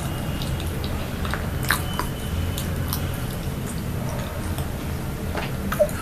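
Close-miked soft chewing with small wet mouth clicks, from someone eating soft snack cakes and croissant, over a steady low hum; one sharper click near the end.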